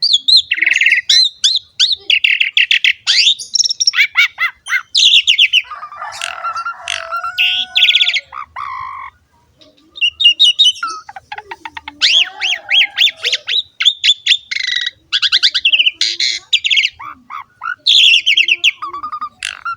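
Asian pied starling (jalak suren) singing in full voice: a long, varied run of rapid chattering trills, harsh squawks and whistled glides, with a short pause about nine seconds in.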